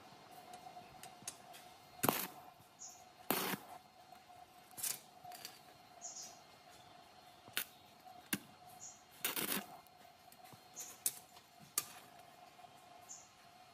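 Irregular sharp clicks and knocks, about ten of them, over a faint steady hum, with a few brief high chirps between them.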